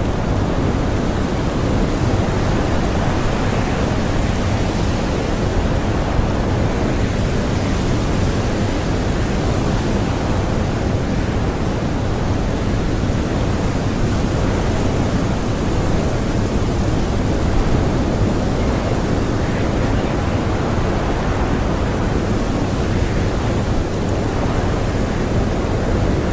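Blizzard wind blowing hard and steadily, a dense low rushing noise with slight swells in strength.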